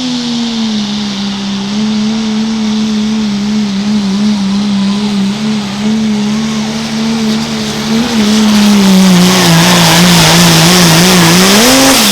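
Diesel pickup truck engine at full power pulling a sled, its note wavering as the truck bounces and the tyres spin in the dirt. It gets louder about two-thirds of the way in, dips a little, then revs up sharply at the very end.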